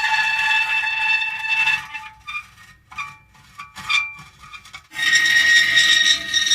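Metal creaking: long drawn-out squealing creaks, broken into short squeaks in the middle before a loud long creak starts again near the end.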